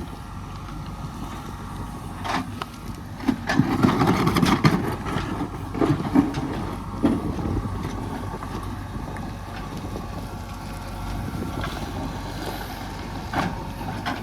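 Heavy diesel engine of construction machinery running steadily. It gets louder for a second or so about four seconds in, with a few short knocks scattered through.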